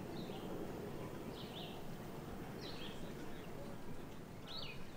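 A bird repeating a short, high chirp about once a second over a steady low background noise.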